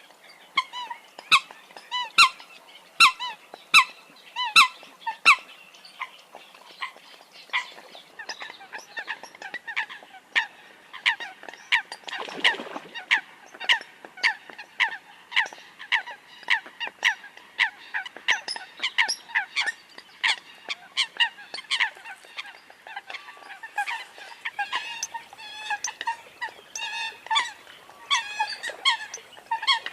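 Eurasian coots calling: a long run of short, sharp single-note calls, about one to two a second. The calls are loudest in the first few seconds and later overlap as more birds join in.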